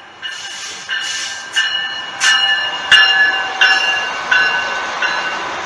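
MARC commuter train with its diesel locomotive passing close by, its bell ringing about once every 0.7 s over the rumble of the train. The strokes are loudest as the locomotive goes by, about halfway through.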